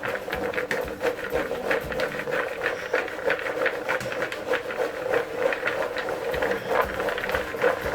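Peanuts rattling and rolling against a bowl as they are shaken and tossed to coat them in flour: a dense, continuous clatter of small clicks.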